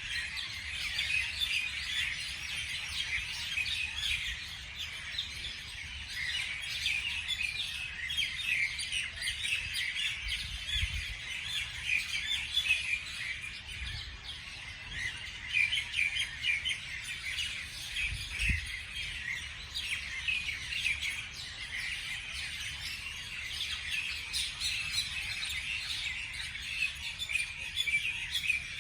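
Many small birds chirping together in a dense, continuous chorus of short high calls.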